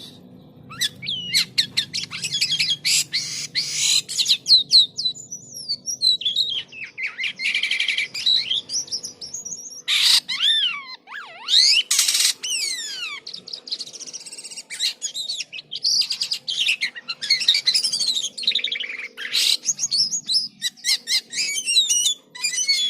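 A jalak kapas starling singing a fast, varied song of whistles, chirps, rising and falling glides and rapid trills, broken by short harsh calls.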